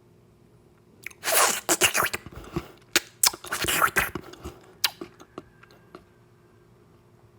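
Close-miked ASMR eating sounds: a run of biting and chewing noises with sharp mouth clicks, starting about a second in and dying away by about five seconds.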